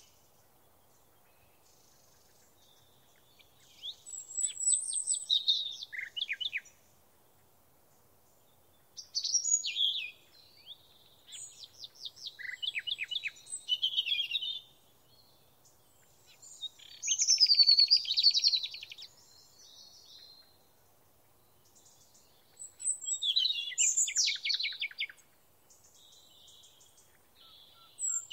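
Songbird song: phrases of quick high chirps and trills, four of them, with quiet pauses of a few seconds between.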